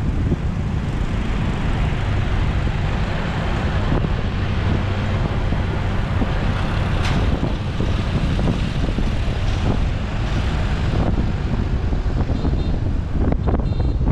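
Motorbike riding through city traffic: steady wind buffeting on the microphone over the bike's engine and road noise.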